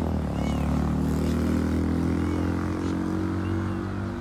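An engine droning steadily, a low hum of several pitches together, easing off near the end.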